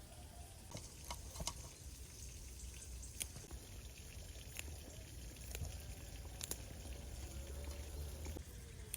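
Liquid pouring and dripping, faint, with scattered sharp clicks.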